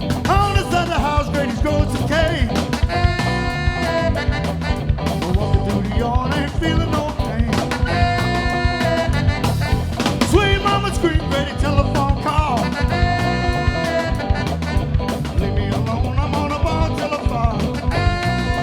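A band playing an upbeat number, with drums keeping a steady beat under a lead line that bends in pitch.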